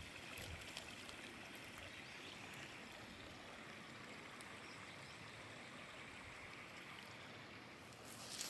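Running water, a faint steady rush.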